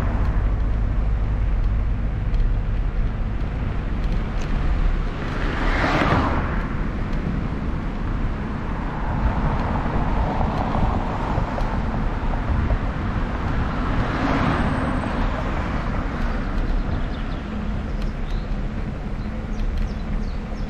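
Wind rumbling on the microphone of a moving bicycle, with road traffic passing: vehicles swell up and fade away about six seconds in and again about fourteen seconds in.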